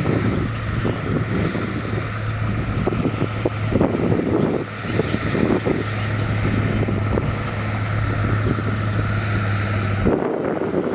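Heavy diesel engine running at a steady drone, with irregular crackling noise over it. The drone cuts off abruptly near the end.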